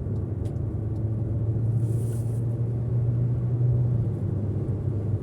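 Car engine and road noise heard from inside the moving car's cabin: a steady low drone that swells slightly about three seconds in.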